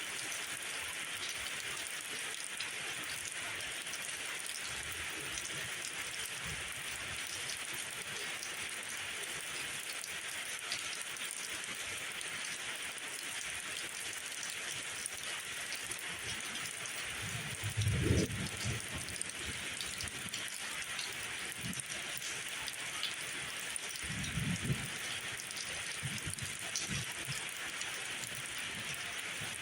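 Steady rain falling, an even dense hiss, with two brief low thuds, the louder about two thirds of the way through and a softer one a few seconds later.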